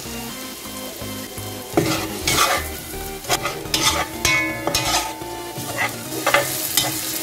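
Prawns, onions and pepper frying in red palm oil in a pot with a steady sizzle. From about two seconds in, a spatula stirs them, scraping against the pot about ten times.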